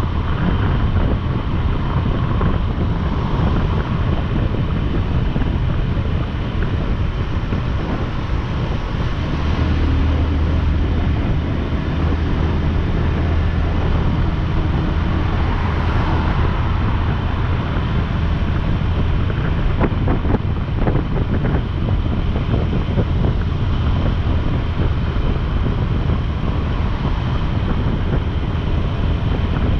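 Motorcycle engine running steadily at cruising speed, mixed with constant wind rushing over the microphone.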